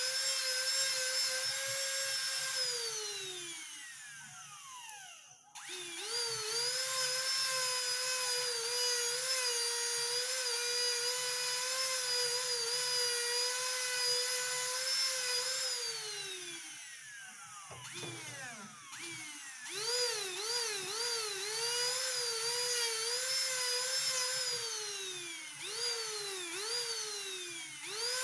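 A high-speed jeweller's rotary handpiece runs at a steady high whine while grinding or polishing. It spins down to a stop about 3 seconds in, starts up again, and spins down again around 16 seconds. In the last third its speed dips and recovers several times in quick succession.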